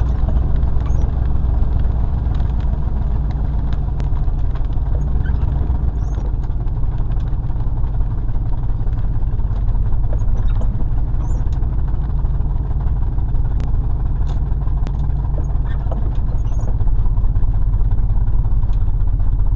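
Car cabin noise while driving in the rain: a steady low engine and road drone with a hiss of tyres on wet pavement and scattered faint ticks.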